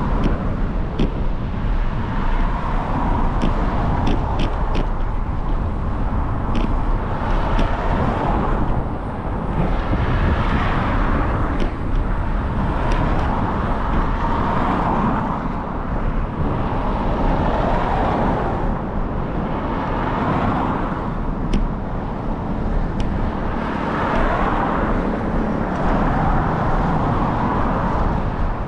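Riding a bicycle through city streets: steady wind and road noise with a deep rumble, passing traffic swelling and fading every few seconds, and a few sharp clicks.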